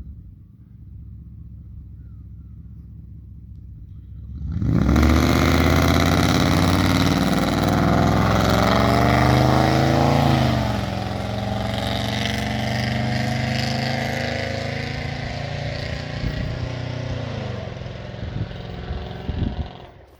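BMW 740i's M62 V8 with a straight-piped true-dual exhaust (no cats, no resonators) running low and steady, then going to full throttle about four and a half seconds in, very loud. The note climbs in pitch, drops sharply about ten seconds in, climbs again, and falls away near the end as the throttle is lifted.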